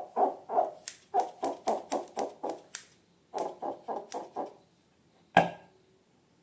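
Slime being squeezed and kneaded in quick rhythmic squelches, about three a second, in bursts with small wet clicks, then one loud sharp snap about five seconds in.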